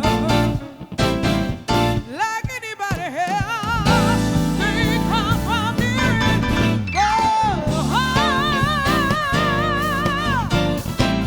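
Live soul band playing, with a singer's wordless vocal runs that end in a long held note with vibrato near the end.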